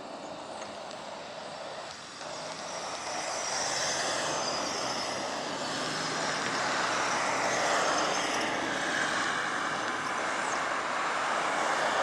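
Jet engine noise from a departing Boeing 737-800, growing louder from about three seconds in, with a faint shifting whine over a broad roar.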